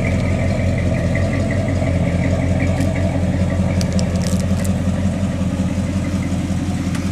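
1968 Oldsmobile 4-4-2's Rocket 400 V8 with dual exhaust idling steadily, a low, even exhaust pulse.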